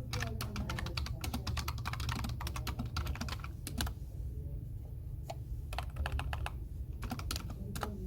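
Typing on a computer keyboard: a quick run of keystrokes for about four seconds, then a handful of scattered keystrokes. A steady low hum runs underneath.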